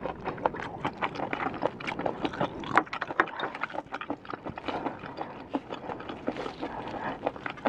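Close-miked chewing of smoked snail meat: quick, irregular wet clicks and crunches of mouth sounds.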